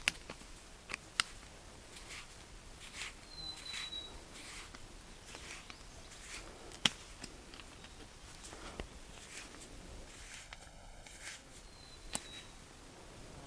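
Faint scattered clicks and knocks, like footsteps and small handling sounds, with a short high whistle that falls slightly in pitch, heard twice.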